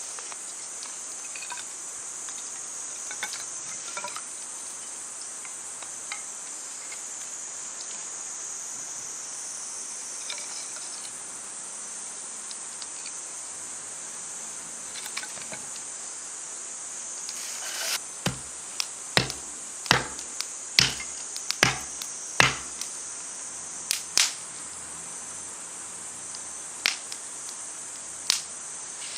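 Summer insects singing in a steady, high-pitched chorus. About two-thirds of the way in, a string of about ten sharp snaps or knocks comes at irregular intervals, louder than the insects.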